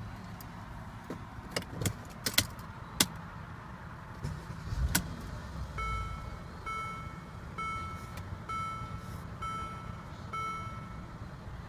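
Clicks and a low thump as someone gets into a Mercedes-Benz ML350 and shuts the door. Then the car's dashboard warning chime sounds seven times, about once a second.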